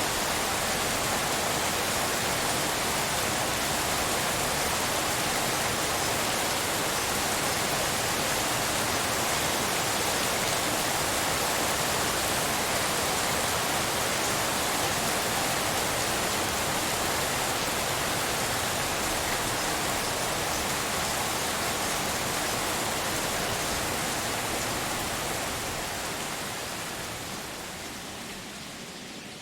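Steady heavy rain, a dense even hiss with no single drops standing out, fading down over the last few seconds.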